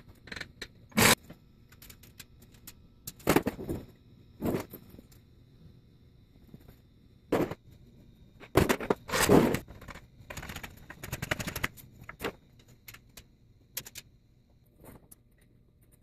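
Irregular metallic clanks, knocks and scrapes of tools and parts being handled, about a dozen separate hits with a quick run of fine clicks near the middle.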